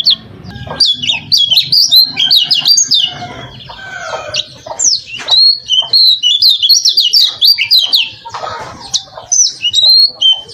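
Kecial kuning, a yellow white-eye, singing a fast, varied song of high chirps, quick trills and sliding notes, including canary-like phrases from song it has been trained on. Harsher, lower rasping notes come in twice.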